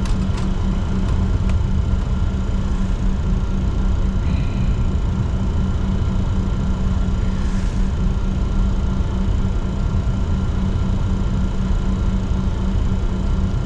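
Steady rumble and hum inside the cockpit of a Bombardier Challenger 604 jet as it taxis, with a few faint clicks in the first second or two.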